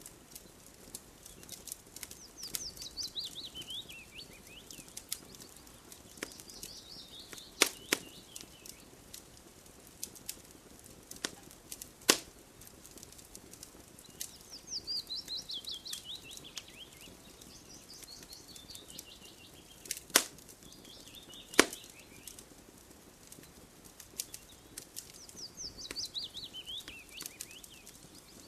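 Wood fire crackling, with scattered small clicks and four loud sharp pops. A songbird sings a falling series of quick chirps, repeated several times.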